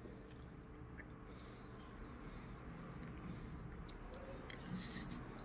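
Faint chewing and wet mouth smacks of someone eating a mouthful of noodles by hand, with a quick run of sharper smacks near the end, over a low steady hum.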